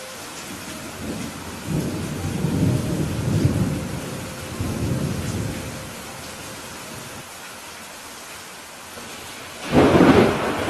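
Steady rain with thunder: a low rolling rumble builds from about two seconds in and fades after a few seconds, then a sudden, louder crack of thunder near the end.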